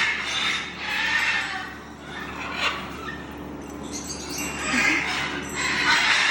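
Parrots squawking and screeching: harsh calls repeated about every second, with a short sharp click a little under halfway through.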